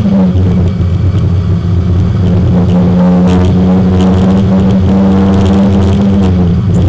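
Porsche 924 race car's four-cylinder engine running hard at steady high revs, heard from inside the car. Its pitch dips briefly just after the start and falls slightly near the end.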